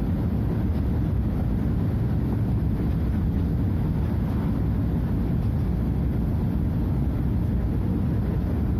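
Scania DC09 five-cylinder diesel engine of a Scania F250HB bus running steadily, a constant low drone with no change in pitch or level.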